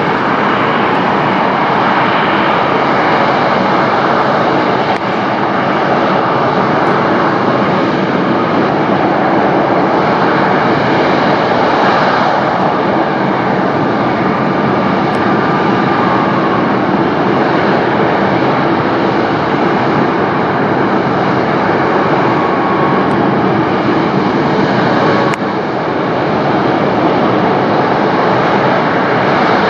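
Jet airliner engines at takeoff, a loud, steady noise throughout, with a brief dip about five seconds in and again near the end.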